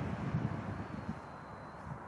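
Wind buffeting the microphone over the steady wash of ocean surf on a beach, with a faint thin high whistle held for about a second in the middle.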